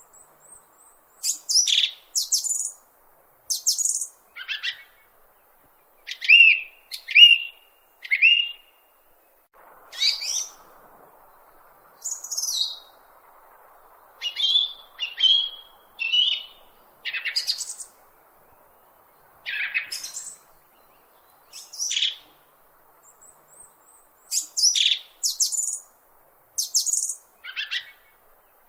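Bird chirping: short, high calls that sweep downward, coming singly or in quick pairs and triplets about every second, with a few brief gaps.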